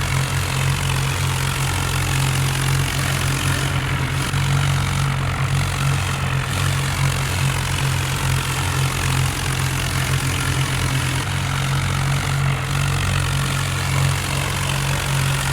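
Tractor diesel engine running steadily with a low, even hum.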